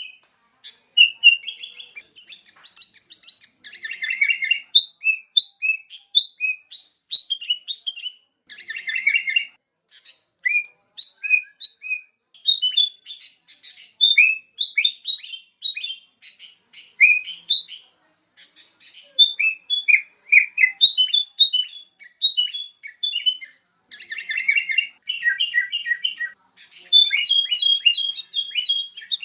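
Sooty-headed bulbul calling: a steady run of short, bubbly whistled notes, with several bursts of denser, overlapping chatter.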